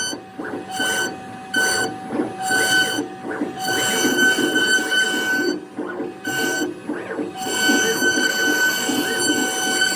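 CNC router carving wood: a high whine that cuts in and out every second or so as the machine moves, over a rough cutting noise.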